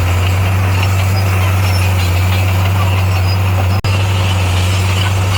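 Diesel engine of heavy earthmoving equipment running at a steady speed: a constant low drone. It breaks off for an instant a little under four seconds in, then carries on unchanged.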